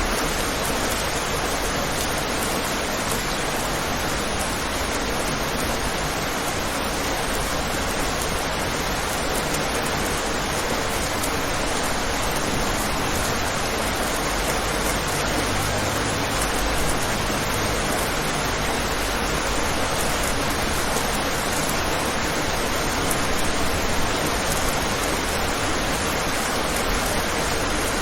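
Steady rain falling on a window pane, an even hiss with no let-up.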